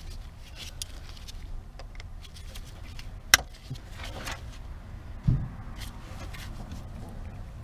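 Scattered clicks and clinks of a wrench and other hand tools working on a seized engine's rocker and pushrod nuts. There is a sharp click a little over 3 seconds in and a short thump a little after 5 seconds, over a low steady hum.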